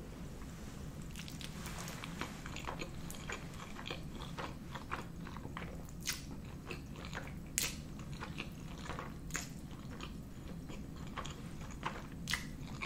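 Close-miked eating sounds of a person chewing spaghetti carbonara: many short, wet mouth clicks and smacks, a few of them louder.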